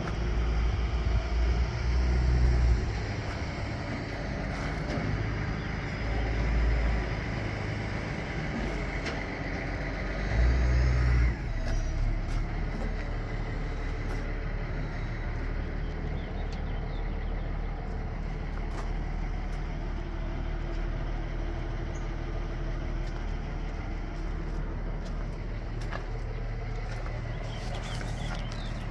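Caterpillar 3406 inline-six diesel of a 1990 Peterbilt 379 running, swelling louder three times in the first dozen seconds as if briefly revved, then running steadily at idle.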